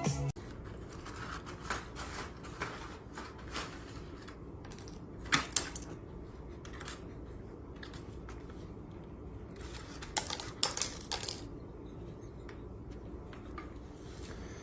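Music cuts off right at the start, giving way to irregular scratching and clicking noises over a low room hum, with two louder clusters of sharp clicks about five seconds in and again around ten seconds in.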